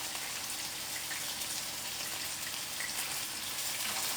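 Chicken tenders frying in oil in a skillet: a steady sizzle with a few faint pops.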